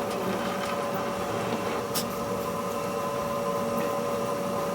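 A machine running steadily with a constant whine over a noisy hum, and a short tick about two seconds in.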